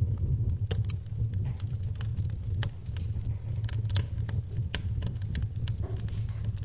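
Wood fire in a fireplace crackling, with many sharp, irregular pops over a low steady rumble, and a soft hiss of rain behind it.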